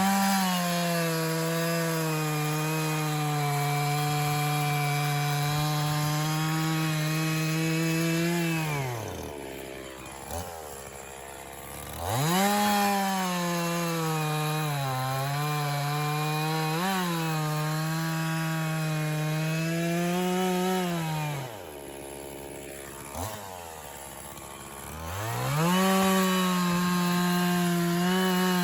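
Echo CS-501P 50cc two-stroke chainsaw cutting white pine logs into firewood rounds. It revs to full throttle and holds high through a cut for about eight seconds, then drops to idle. It runs a second cut with the pitch dipping briefly as the chain loads in the wood, idles again, and revs up for a third cut near the end.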